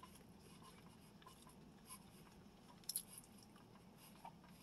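Faint chewing and mouth sounds, with a few soft clicks; the loudest comes about three seconds in.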